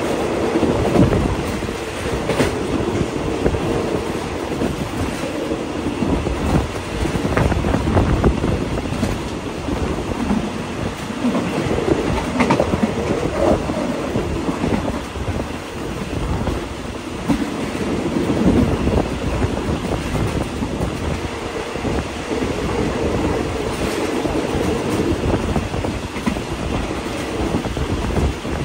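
Running noise of a moving passenger train heard at a coach's open side window: steel wheels rolling on the rails in a steady rumble, with a few sharp clicks over rail joints, and air rushing past.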